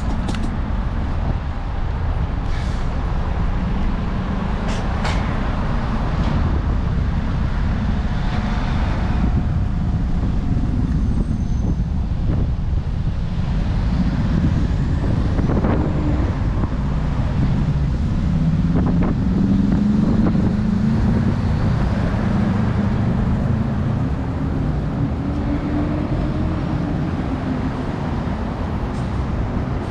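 City street traffic: motor vehicles running and passing with a steady low rumble. A heavy vehicle's engine note rises and wavers midway, and a few short sharp clicks sound.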